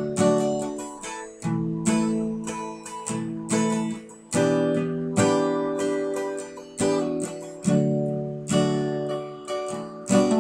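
Acoustic guitar strumming chords in an instrumental break between sung sections, each strum ringing out and fading before the next.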